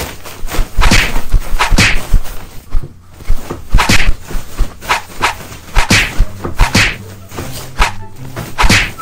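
A salon cape being shaken and snapped out by hand, giving a sharp swish roughly once a second.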